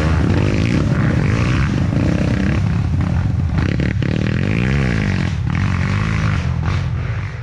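Off-road motorcycle engines running and revving, the pitch rising and falling as the throttle changes, fading out at the very end.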